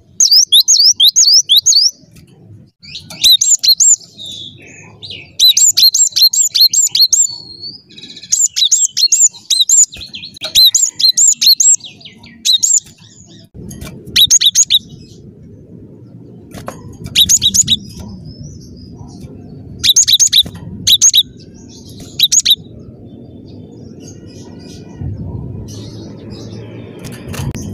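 Cinereous tit (gelatik batu) singing: phrases of rapid, sharp, high chirping notes, each phrase one to two seconds long, repeated after short pauses. A low background rumble runs under the second half.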